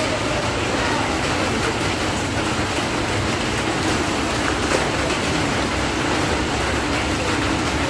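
Passenger train approaching behind an electric locomotive, a steady rumble mixed with the hiss of rain falling on the platform.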